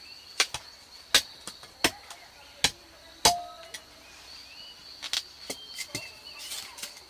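Sharp chopping strikes of a blade into wood or bamboo, about one every 0.7 s, the loudest about three seconds in, then a short pause and a few more. A steady high insect drone runs behind them.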